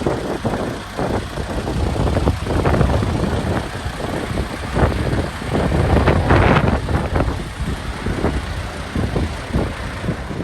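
MAN TGX tractor unit's six-cylinder diesel engine running, its loudness rising and falling in uneven surges.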